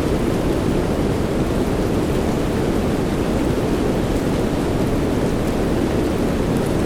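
Soft rain sleep noise: a steady, dense hiss weighted toward low pitches. No single drops or claps of thunder stand out, and it does not swell or fade.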